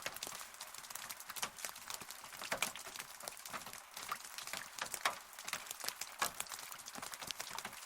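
Rain falling steadily, a hiss with many irregular close drops tapping on a surface.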